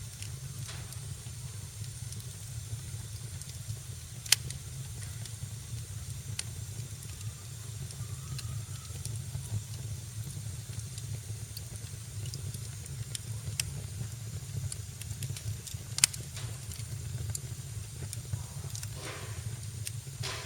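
Wood fire burning in a fireplace: a steady low rumble and hiss with scattered sharp crackles, two louder pops about four seconds in and again about sixteen seconds in.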